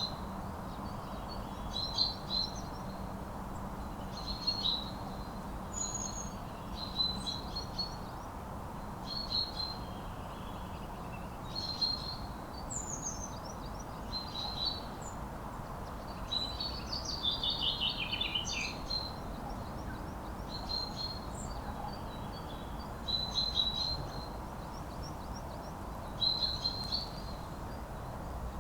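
Songbirds singing short, high phrases every couple of seconds, with a longer falling run of notes past the middle, over a steady low rumble of background noise.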